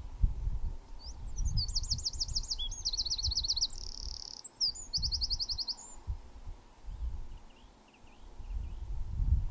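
A small songbird singing one high, varied phrase of about five seconds: quick looping notes, a faster trill, a short buzzy note, then another rapid trill.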